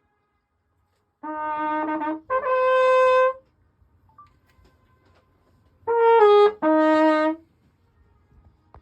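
Trumpet playing two short phrases of held notes, one about a second in and one about six seconds in, with pauses between.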